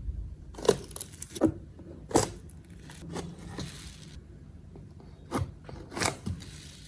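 Handling noises of small objects: a string of light, irregular taps and clicks, about eight in all, with a faint scraping in the first few seconds.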